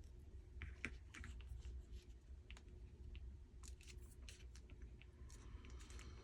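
Near silence with faint scattered clicks and light rustles of paper pieces being handled.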